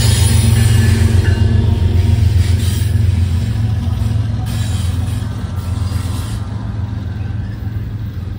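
A train rumbling past with a steady low engine hum, gradually fading as it moves away.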